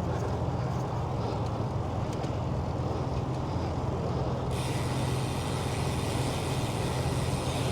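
Steady rumble of road traffic and wind heard from a moving bicycle, with a faint high hiss joining about halfway through.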